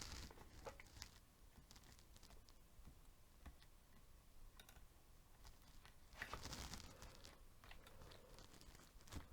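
Faint handling noises at a workbench: scattered small clicks and light rustling, with a louder rustle about six seconds in.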